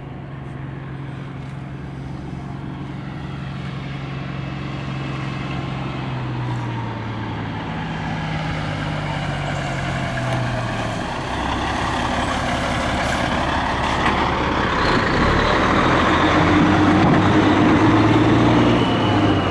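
Truck engine running as the truck approaches along the road, growing steadily louder and loudest near the end.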